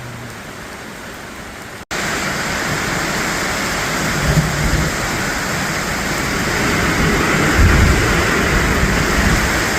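Heavy rain pouring down as a steady hiss, jumping much louder about two seconds in. Low rumbles come twice under it.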